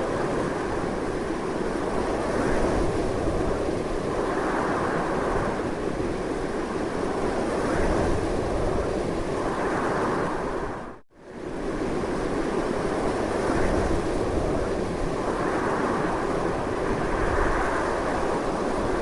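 Strong, steady wind noise with slow swells in strength. It briefly fades out and back in about eleven seconds in.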